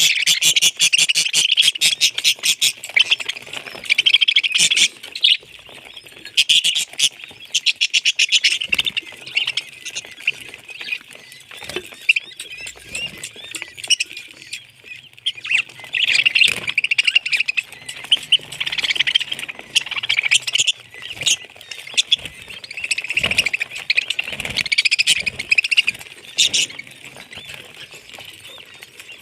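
Parrots chirping and chattering in rapid pulsed trills that come and go in bouts, with scattered sharp clicks.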